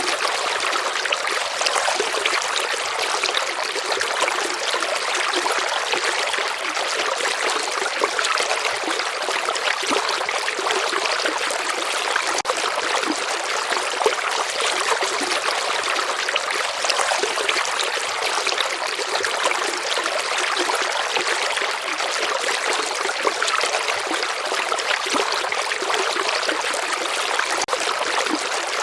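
A shallow stream trickling and babbling over stones, a steady bright rush of water with little low rumble.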